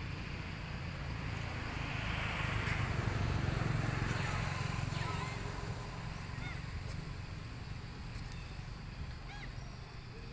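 Outdoor ambience: a steady low rumble that swells a couple of seconds in, with a few faint short chirps later on.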